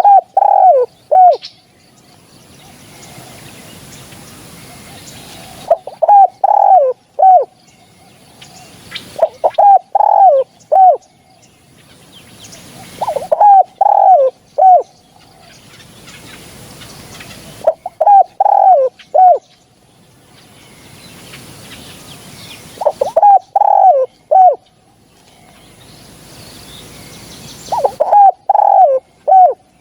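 Spotted dove cooing, a recorded call used as a hunting lure. Seven phrases of three or four falling coos, each about a second and a half long, come every four to five seconds.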